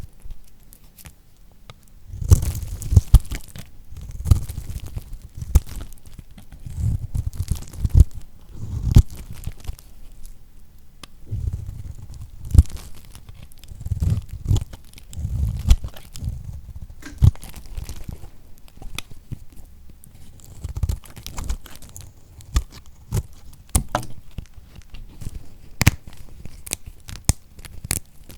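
Knife cutting through lacquered soap: crisp crunching and crackling as the hard coated surface breaks, in irregular strokes with sharp clicks and duller low thuds.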